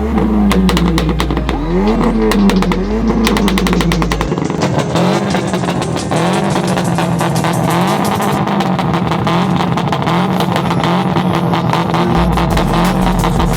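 Car engine held on a two-step launch-control rev limiter, its pitch rising and falling over and over, with rapid exhaust pops and crackles in the first few seconds.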